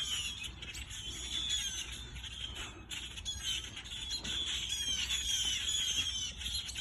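Many small birds giving short, high, downslurred alarm calls over and over, overlapping one another, in response to a Cooper's hawk.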